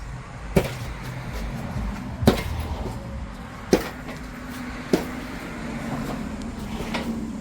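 Cherry picker engine hoist with a hanging engine being rolled over asphalt: five sharp knocks and clanks over a low rolling rumble.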